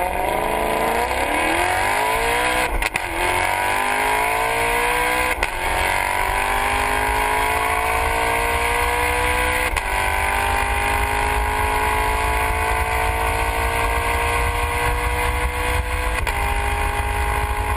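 Maserati V8, developed with Ferrari, accelerating hard through the gears. Its pitch climbs and drops sharply at each of four upshifts, and each gear is held longer than the one before.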